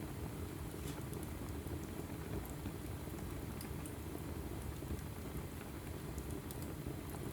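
Logs burning in a fireplace: a steady low rumble of flame, with scattered small crackles and pops.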